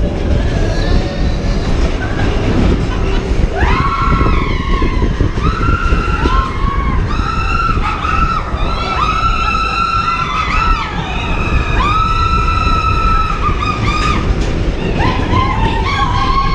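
Expedition Everest roller coaster train rumbling along its track, with riders' long, high screams starting about three and a half seconds in and repeating several times.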